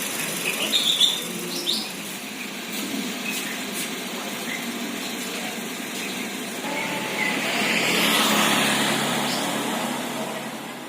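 Outdoor traffic ambience: a vehicle passes, its noise swelling to a peak about eight seconds in and then fading, with a few short high chirps in the first two seconds.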